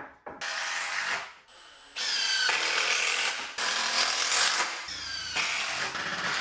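Power drill driving a wood screw into 2x3 lumber, running in several bursts with short pauses: a brief run near the start, then longer runs until the screw is home. The drill's power setting has just been turned up because screws kept sticking partway in.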